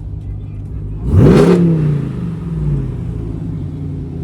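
Ram TRX's supercharged 6.2-litre V8 idling through a Borla aftermarket exhaust, with one sharp rev about a second in that falls back to idle.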